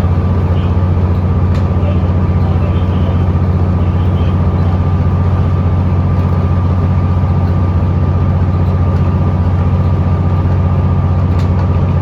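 Scania L94UB city bus's diesel engine and ZF automatic driveline running steadily at a constant speed, heard from inside the cabin: a steady low drone with a thin steady whine above it.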